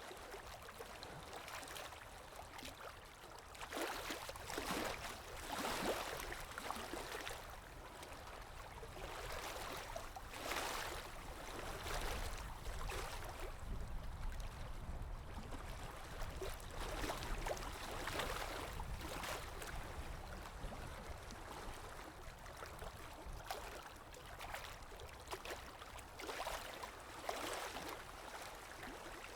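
Running water, a steady rushing that swells and eases every few seconds.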